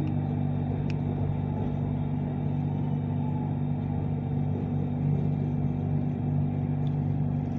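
BTS Skytrain moving slowly along a station platform, heard from inside the carriage: a steady low hum from the train with an even running noise.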